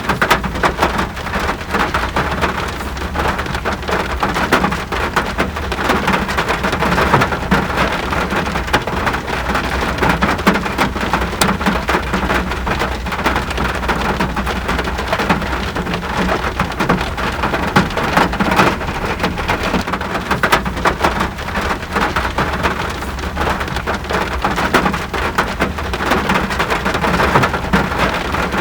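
Steady rain falling, a dense even hiss full of individual drop hits, over a steady low rumble.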